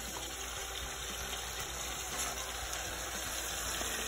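Ground beef sizzling steadily in a frying pan, with a few faint clicks of a spatula against the pan.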